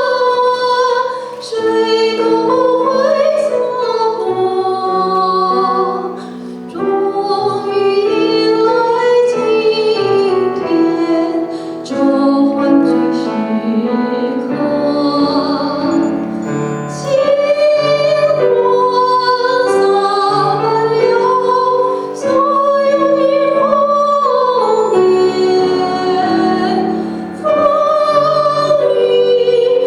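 A woman singing in a trained, operatic style with clear vibrato, accompanied by piano, in phrases with short breaths between them.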